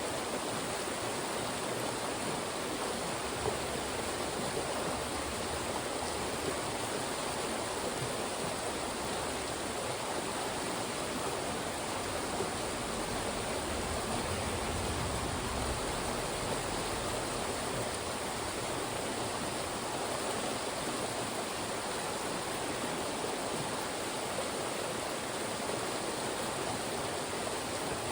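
Fast-moving mountain stream rushing through narrow channels between rocks, a steady, even rush of water with no pauses.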